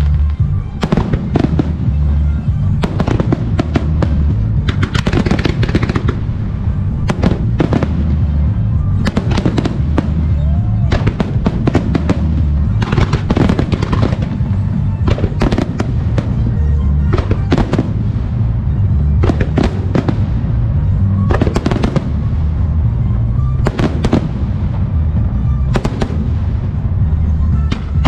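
A music starmine fireworks barrage: shells bursting in quick succession, one sharp report after another with crackle between them, over music played in sync with the display.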